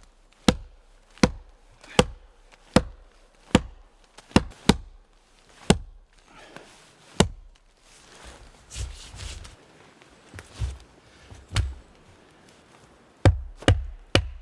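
Axe chopping wood: a run of sharp, evenly spaced strikes about every three-quarters of a second, then a few seconds of softer crunching and rustling, then four quick strikes near the end.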